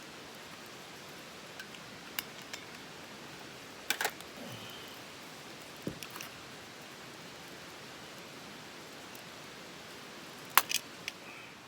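Wood campfire burning: a steady hiss with a few sharp pops scattered through it, the loudest pair near the end.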